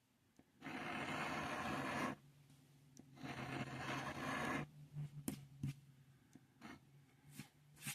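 Scratch-off lottery ticket being scratched, two long scraping strokes, each lasting about a second and a half, followed by a few light taps and clicks.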